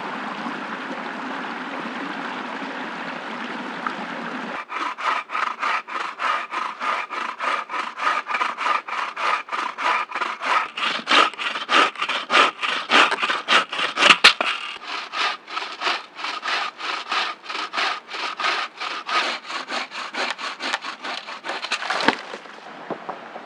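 Hand saw cutting through wood in steady back-and-forth strokes, about three a second. The sawing starts a few seconds in and stops near the end, with a steady rushing background before and after it.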